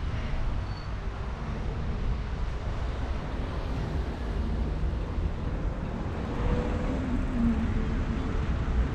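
Wind buffeting a camera microphone while riding a bike: a steady low rumble throughout.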